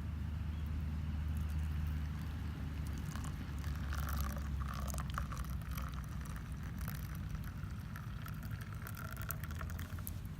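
Liquid bubbling and splashing in a metal canteen cup over a campfire, with scattered sharp crackles and a steady low rumble underneath.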